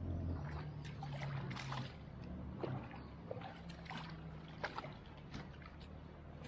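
Water splashing and dripping around a kayak on a river, in irregular small splashes and knocks, over a low steady hum.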